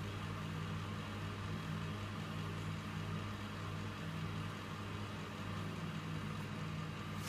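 Electrolux W455H commercial washing machine running, a steady low hum with no change in level.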